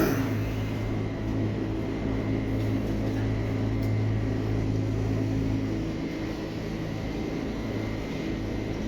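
A steady mechanical hum: a low drone with a faint high whine.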